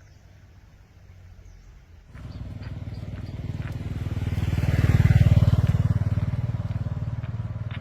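A small engine running, coming in suddenly about two seconds in, growing louder to a peak near the middle, then easing off, like a vehicle passing close by.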